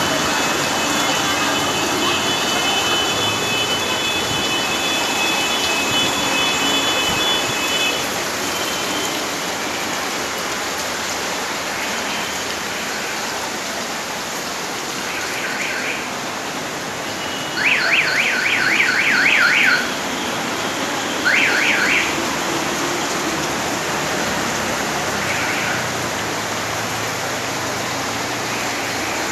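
Heavy rain hissing steadily on a flooded street. A thin high whine runs through the first eight seconds. Later an electronic warbling alarm sounds in several short bursts, loudest for about two seconds just past the middle.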